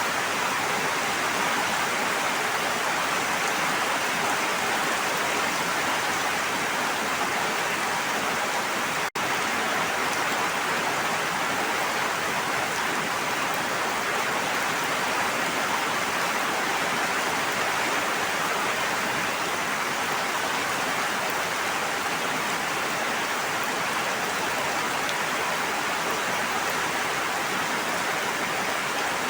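Steady, even hiss of falling or rushing water, with a split-second dropout about nine seconds in.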